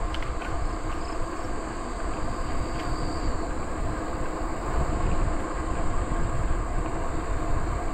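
Steady rumble of wind over the microphone and tyre noise from a moving bicycle, strongest in the deep low end.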